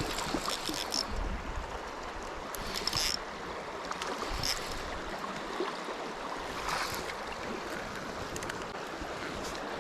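Creek water running steadily, with a few short splashy bursts over it, about a second in, near three seconds, and again around the middle.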